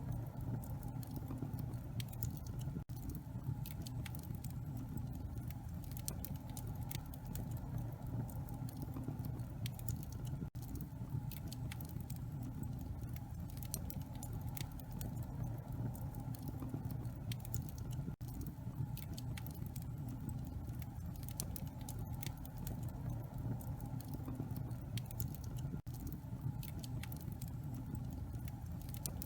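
Wood fire crackling in a fireplace: frequent small, irregular pops and snaps over a steady low rumble.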